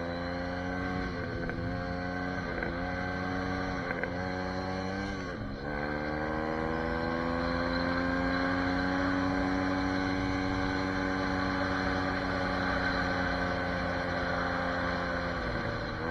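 SSR 150 dirt bike's single-cylinder four-stroke engine being ridden. The revs dip and pick up again several times early on, as with throttle changes or gear shifts, then hold steady and high for a long stretch before easing off near the end.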